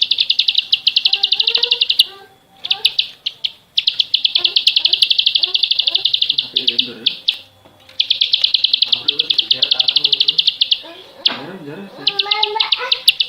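Recorded songbird song: a fast, high, dry trill of about a dozen repeated notes a second, in long runs broken by short pauses, with fainter, lower chirping underneath.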